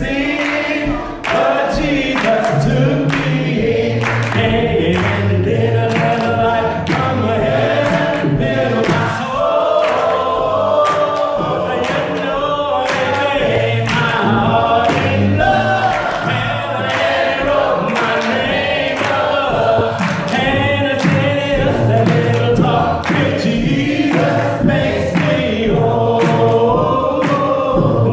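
Church congregation singing a gospel song together, with sharp beats keeping time.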